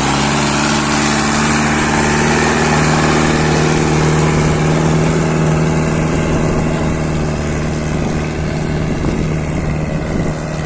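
Powertrac Euro 60 Next tractor engine working under load while pulling a harrow in low-medium gear. Its note climbs a little at first, then holds steady.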